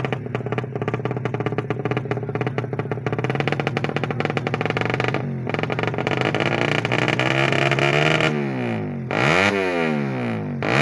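Tuned 155 cc motorcycle engine idling with a fast pulsing, its pitch creeping up, then revved hard several times near the end, the pitch climbing and dropping sharply each time.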